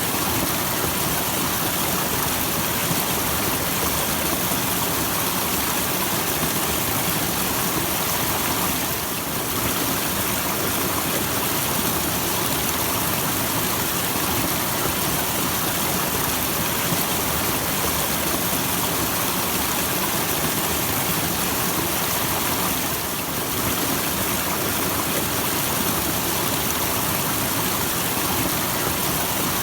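Small waterfall with a steady, even rush of falling water. The level dips briefly twice, about nine and twenty-three seconds in.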